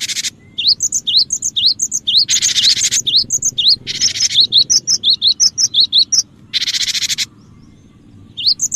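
Cinereous tit (gelatik batu) calling, as played for luring birds: quick runs of short, high, upward-flicked chirps alternating with about four harsh, buzzing churrs, each lasting around half a second.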